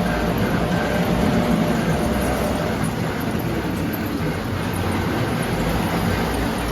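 Model trains running on a layout: a steady rumble of wheels and motors on the track.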